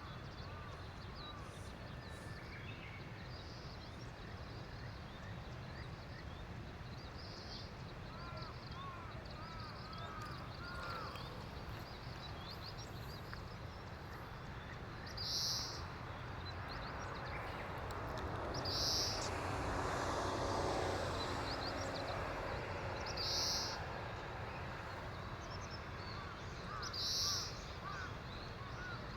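Steady rushing of Harajiri Falls' waterfall, with small birds chirping. In the second half, four short, high, sharp calls come a few seconds apart.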